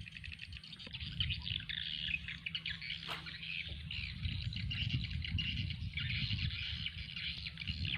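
Birds chirping in a dense, rapid high chatter, over a low rumble.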